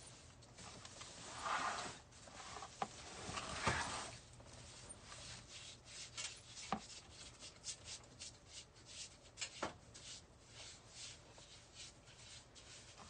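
Artificial evergreen picks and wreath materials being handled: faint rustling and rubbing with scattered light clicks, a little louder about one and a half and nearly four seconds in.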